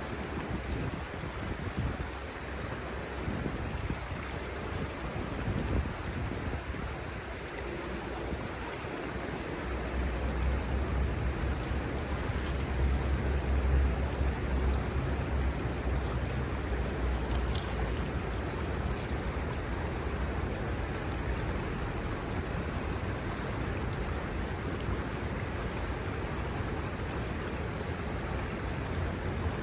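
Kamo River water running over its shallows: a steady rushing murmur. A low rumble swells about a third of the way in, and a few short, faint high chirps sound over it.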